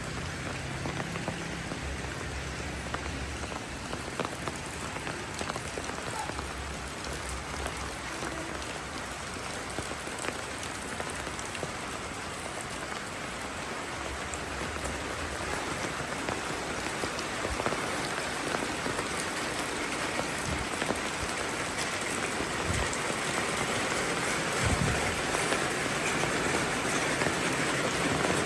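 Steady rainfall, growing a little louder in the second half.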